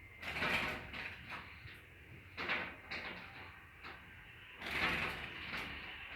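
A small bird pecking and fluttering at a mirror, taking its own reflection for a rival bird. Irregular bursts of taps and wing rustling come three times: near the start, about halfway, and near the end.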